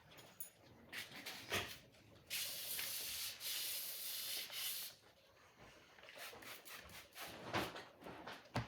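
A long rubbing scrape that lasts about two and a half seconds, starting a little over two seconds in, with scattered light knocks and rustles around it.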